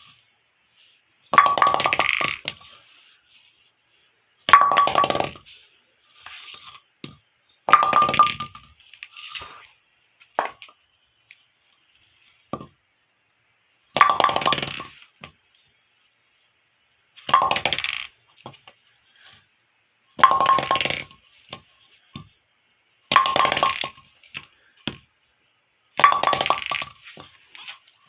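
A big bowling pin hit again and again for a sound test: about eight sharp clattering impacts a few seconds apart. Each impact has a ringing note and a short rattle after it.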